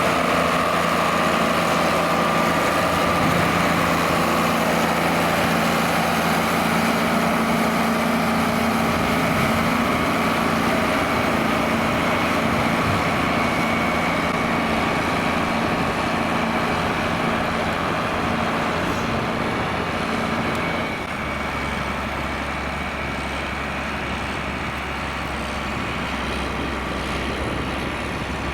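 John Deere 4850's six-cylinder diesel engine running steadily under load while ploughing. About 21 seconds in, its note drops lower and gets slightly quieter.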